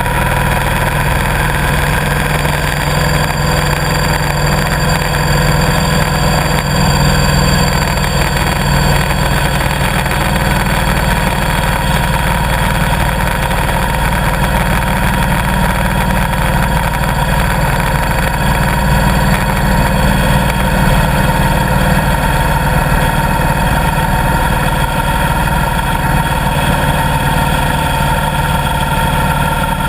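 Motorcycle engine running steadily at an even pitch, over a steady rush of noise.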